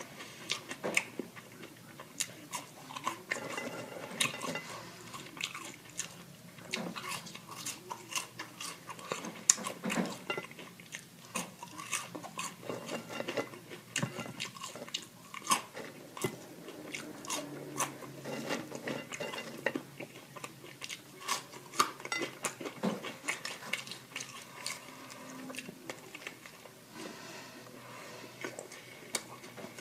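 A person chewing and biting food close to the microphone. It is a dense, irregular run of crunches and wet mouth clicks.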